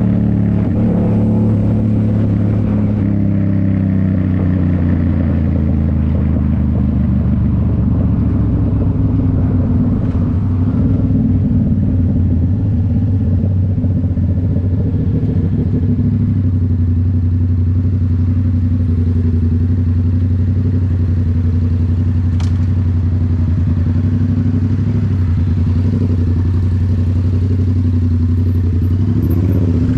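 A 2019 Yamaha MT-07's parallel-twin engine running through a Toce full exhaust while the bike is ridden. Its note eases down over the first few seconds and then holds steady at a constant cruise. There is one brief click about two-thirds of the way through.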